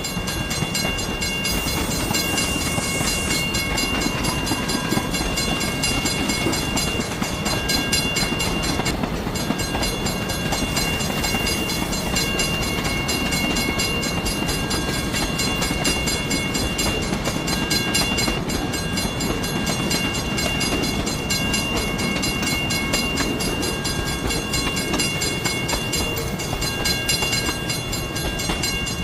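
Train running on rails: a steady rumble of rail noise with a few faint steady high-pitched tones over it, without a break.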